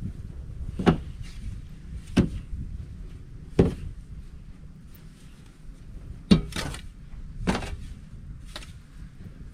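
A series of about seven irregular thuds, roughly one to one and a half seconds apart, the loudest about six seconds in.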